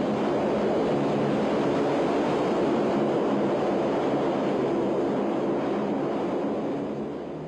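LCAC hovercraft running under power: its gas turbines and shrouded propellers make a loud, steady noise with a low hum. It fades near the end.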